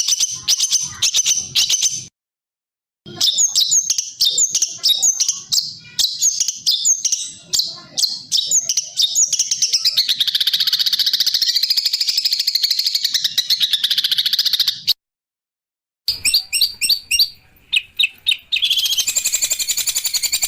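Loud songbird song: rapid high chirps and repeated down-slurred whistles, then a long fast trill. It is cut off abruptly twice, with brief silences about two seconds in and about fifteen seconds in, and each time another burst of chirps and trills follows.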